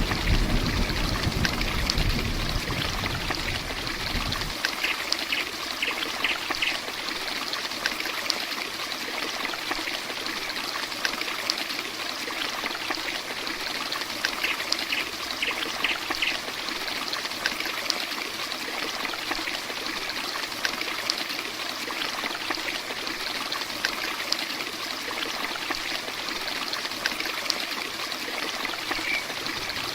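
Steady heavy rain falling, an even wash of noise. A low rumble underneath stops abruptly about four and a half seconds in, and two brief runs of four short high chirps are heard, about five and fifteen seconds in.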